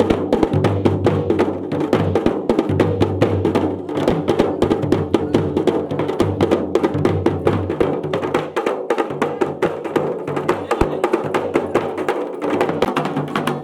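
Dhol and damau drums played fast, a dense, unbroken run of strokes.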